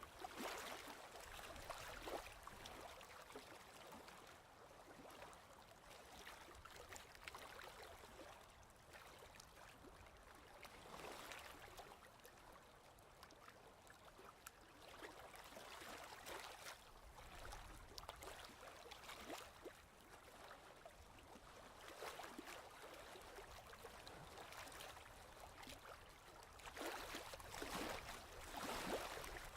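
Ocean waves washing in softly, a hiss of surf that swells and falls back every few seconds, with the loudest swells near the end.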